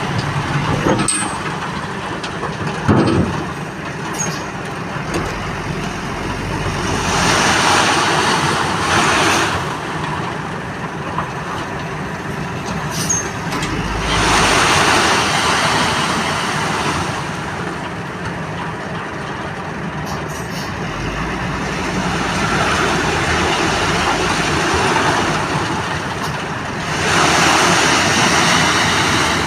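Dump truck running while it unloads, its engine noise continuous, with three swells of louder noise lasting a couple of seconds each and a single knock a few seconds in.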